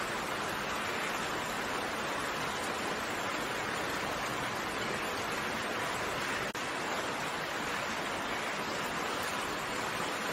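Steady rain falling, an even hiss of raindrops with no single drops standing out. About six and a half seconds in the sound dips out for a split second.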